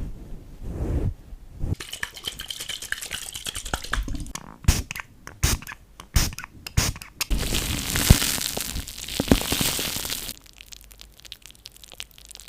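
Foam being crushed and squeezed by hand, giving irregular crackles and crunches, with a denser run of crackling in the middle that then drops away.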